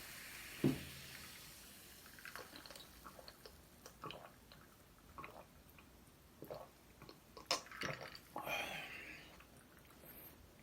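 Close-miked eating sounds: wet chewing and scattered small clicks, with a single knock a little under a second in.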